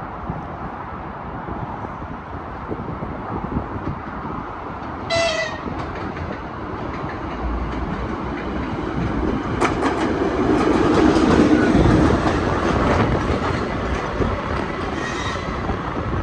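An EP2K diesel locomotive hauling a train passes close by, growing louder to a peak past the middle, with wheels clicking over the rail joints. There is a short horn blast about five seconds in and a fainter one near the end.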